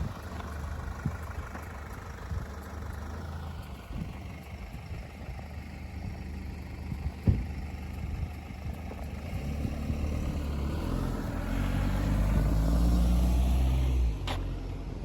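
Motorcycle engine running, growing louder about ten seconds in, then cutting off abruptly near the end. A single sharp knock sounds about seven seconds in.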